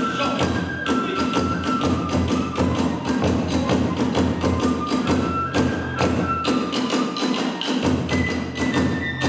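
Kagura hayashi: a bamboo transverse flute (fue) playing a held, stepping melody over fast, dense taiko drum strokes and clashing tebyoshi hand cymbals.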